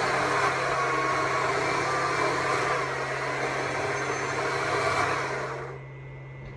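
Stihl MSA 200 C battery chainsaw running and cutting into wood. Its noise dies away about five and a half seconds in as the saw stops, its battery running flat.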